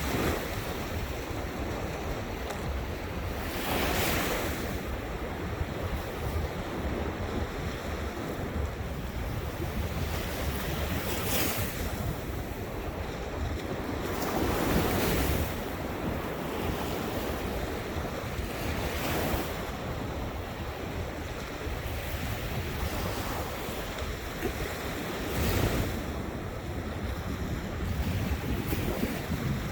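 Ocean waves breaking on the shore every few seconds, each wash swelling and fading, with steady wind noise on the microphone.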